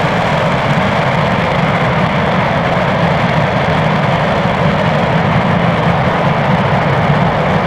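RS-25 liquid-hydrogen/liquid-oxygen rocket engine firing during a full-duration hot-fire test: a loud, continuous rumbling noise that holds steady throughout.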